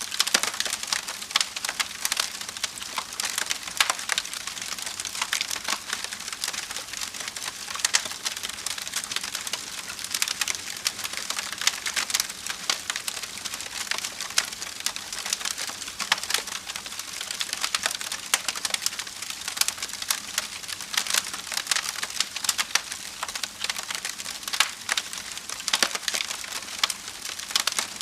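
Wood fire burning in a fireplace, crackling steadily with frequent sharp pops and snaps.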